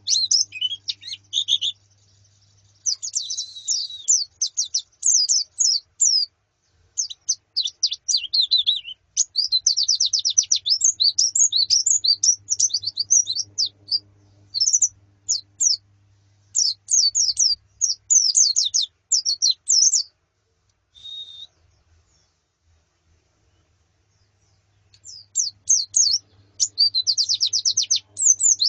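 White-eyes (pleci) twittering in dense runs of rapid high chirps. The calls stop for several seconds after about twenty seconds, apart from one short call, then start again near the end.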